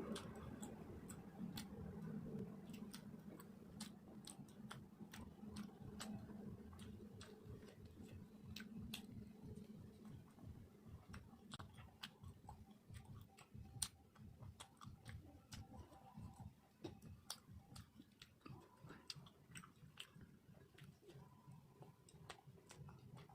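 Faint close-up chewing of steamed rice cake and chicken curry, with many irregular wet mouth clicks and smacks.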